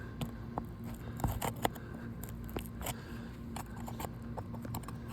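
Irregular clicks and short scrapes of a hand tool working under asphalt shingles to pull a roofing nail, over a steady low hum.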